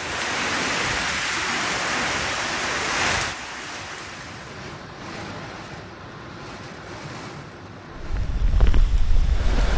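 Stormy weather noise of rushing water and wind. It is loud for about three seconds, cuts to a quieter rush, then heavy wind buffeting on the microphone sets in near the end.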